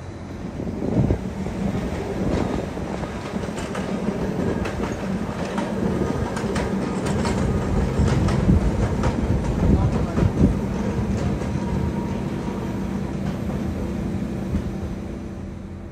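Adelaide Metro 3000 class diesel-electric railcar running with a steady engine hum, and a run of clicks and clatters between about three and eleven seconds in.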